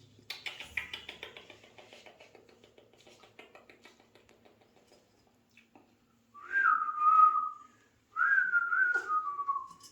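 Alexandrine parrot whistling twice, two clear mid-pitched whistles lasting about a second each, the second dropping in pitch at its end. Before them comes a rapid faint clicking that dies away over the first few seconds.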